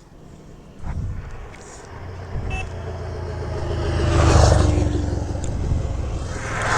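A motor vehicle's engine running close by. It grows louder to a peak about four and a half seconds in, then eases off a little, like a vehicle passing.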